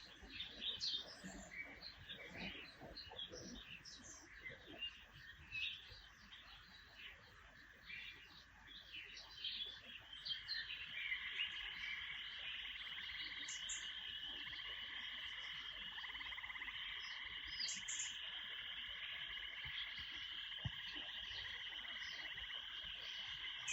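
Small birds chirping in many short, high calls. About ten seconds in, a steady trilling chorus sets in and carries on, with a few chirps still over it.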